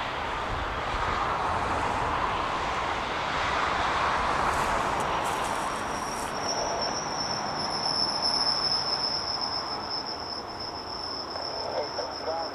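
Aircraft engine noise, a steady rush that swells and fades. About six seconds in, a steady high-pitched whine joins it and holds.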